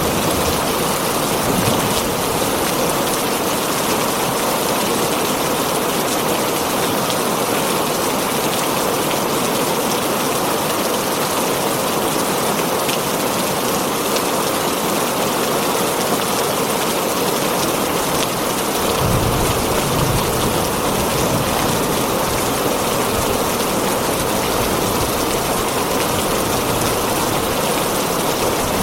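Heavy rain falling steadily on a tin roof, a dense even hiss of raindrops. A low rumble comes in about two-thirds of the way through and carries on underneath.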